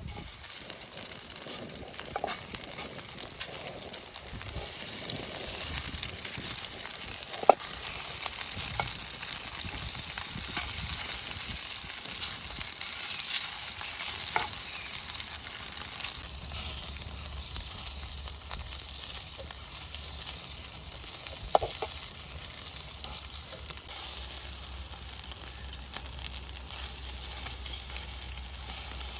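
Food frying in a pan: a steady sizzle with crackling, and two sharp knocks, one about seven seconds in and another about twenty-one seconds in.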